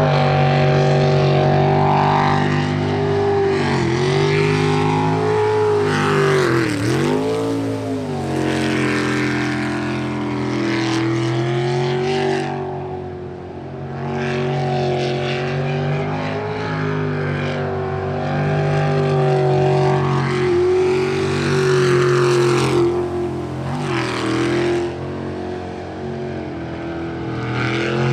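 Jet sprint boat's engine at full throttle on a timed run through a tight water course. Its pitch dips sharply several times as the driver backs off for turns, then climbs again.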